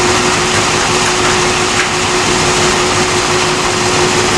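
Steady rush of storm wind, with a constant low hum underneath.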